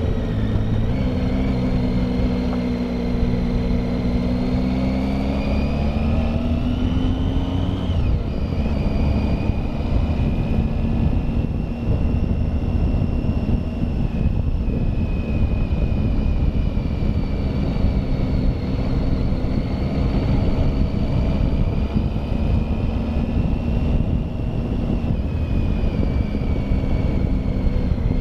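Triumph Tiger motorcycle engine running under load, its pitch rising for several seconds and then dropping sharply about eight seconds in, after which it holds fairly steady with gentle rises and falls. A heavy rumble of wind on the microphone runs underneath.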